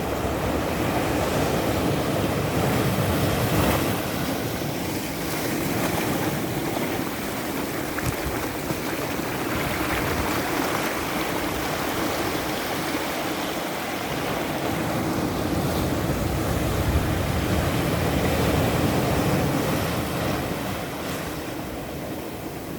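Ocean surf: waves breaking and washing up the shore, a steady roar of water that swells and eases every several seconds.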